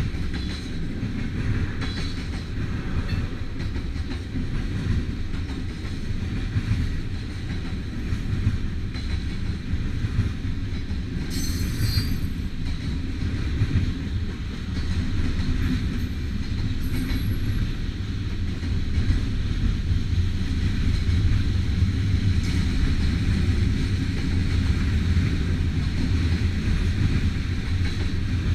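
Manifest freight train cars rolling past with a steady rumble and clickety-clack of wheels over the rail joints. A brief high-pitched wheel squeal comes about 12 seconds in, and the rumble grows louder in the last third.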